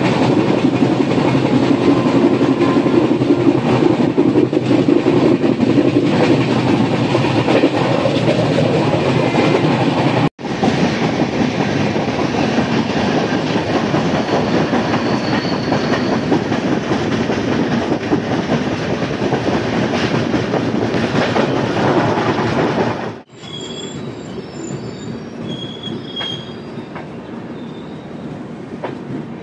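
Coimbatore–LTT Mumbai Express passenger train running: a dense, steady rumble and clatter of wheels on rails. The sound breaks off abruptly twice where clips are joined. The last stretch is quieter, with a few short high-pitched squeals.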